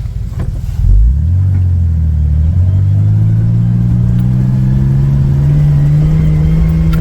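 Four-wheel-drive vehicle's engine pulling hard under load, its revs climbing steadily from about a second in and then held high as it drives up a steep off-road climb.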